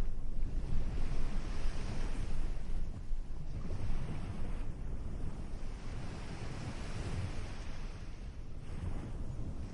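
Ocean waves breaking and washing in, the hiss of surf swelling and fading in long surges a few seconds apart, with wind rumbling on the microphone.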